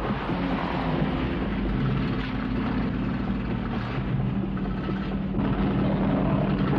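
Car engines running, a steady low rumble under a wash of noise.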